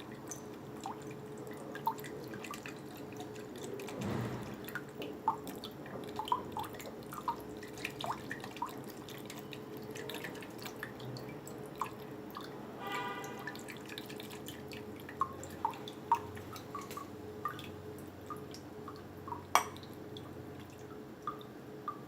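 Water dripping in scattered drops from a refrigerator water filter as it is changed, with small plastic clicks and knocks over a steady hum. A brief pitched squeak near the middle, and one sharp click near the end.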